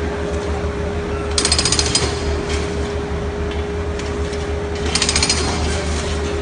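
Jackhammer breaking concrete in two short bursts of rapid hammering, about a second and a half in and again near five seconds. Under it runs a steady rumble of heavy construction machinery with a constant hum.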